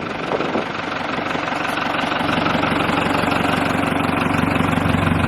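New Holland tractor's diesel engine idling steadily, heard from the cab, growing a little louder over the few seconds.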